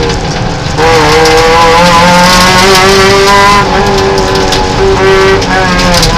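Peugeot 309 rally car's engine heard from inside the cabin at full stage pace: revs drop briefly off the throttle, come back on hard about a second in, climb through the middle and fall again near the end as the driver lifts.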